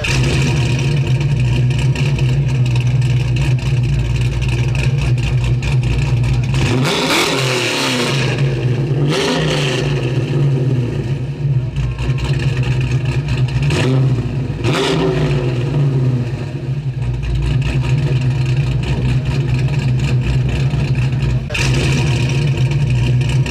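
A 1966 Ford Falcon's 351 Cleveland V8 idling, revved several times with quick throttle blips that rise and fall back to idle.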